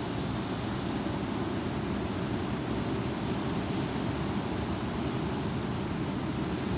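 Strong wind blowing, a steady rushing noise with a low rumble on the microphone.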